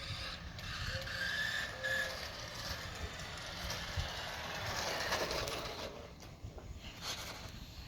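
Tyco 9.6-volt Twin Turbo Lamborghini radio-controlled toy car driving, its small electric motor whining over the hiss of its tyres. The sound swells about five seconds in, then fades near the end.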